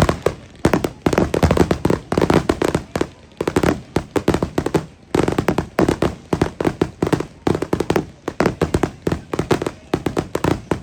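Consumer fireworks going off in rapid volleys: many sharp bangs a second, in clusters separated by brief gaps.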